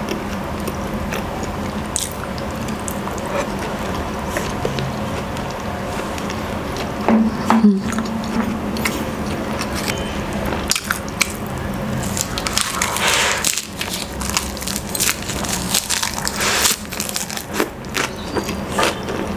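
Close-up eating sounds: wet, squishy chewing of gravy-dipped rotisserie chicken with many small mouth clicks, then crisp crunching of dressed lettuce leaves in the second half.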